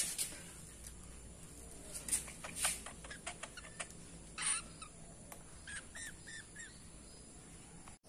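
Faint chirping of a small pet bird: scattered short sharp clicks, a single call about halfway through, then a quick run of four short, arched notes.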